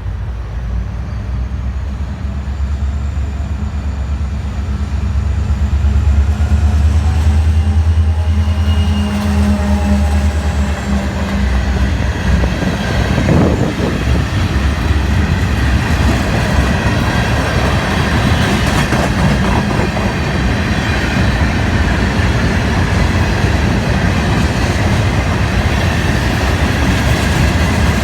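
Florida East Coast freight train passing close by. The lead diesel locomotive's engine makes a steady low rumble for about the first twelve seconds, then the freight cars roll past with their wheels clattering over the rails.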